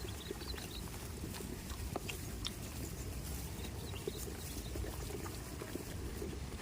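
Goats moving about: scattered small clicks and knocks over a steady low rumble, with no bleating.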